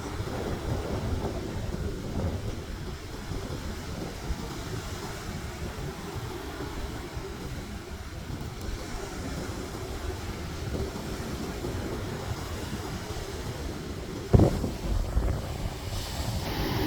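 Sea breeze buffeting the microphone over the wash of sea waves, with a sudden loud thump a couple of seconds before the end.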